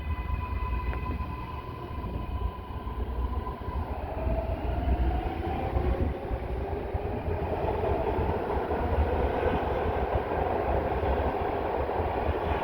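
MARTA rapid-transit train pulling into the station: a heavy low rumble of the cars on the rails, growing louder, with a faint motor whine that shifts in pitch from about four seconds in.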